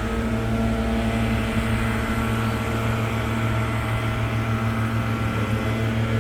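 Gas leaf blower engine running steadily at speed, a constant pitched drone with an airy hiss on top.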